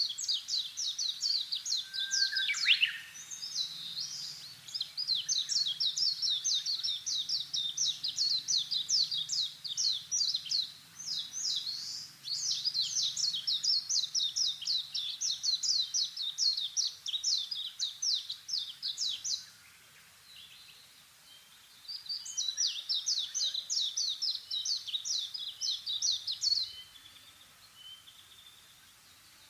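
A small songbird singing long, fast trills of high, quick notes, in runs several seconds long with short breaks. The singing stops well before the end, leaving only faint background.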